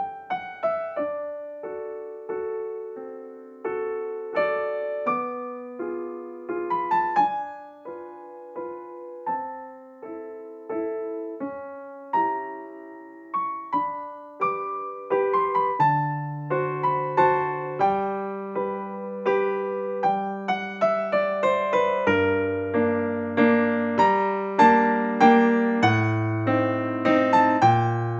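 Background piano music: a gentle melody of single struck notes, with lower bass notes joining about halfway through.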